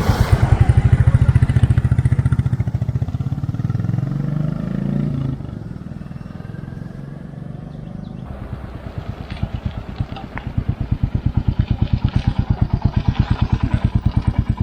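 Royal Enfield Classic 350's single-cylinder engine running with a steady, even thump. It is loud at first, drops back about five seconds in, then builds up again from about ten seconds, and cuts off suddenly at the end.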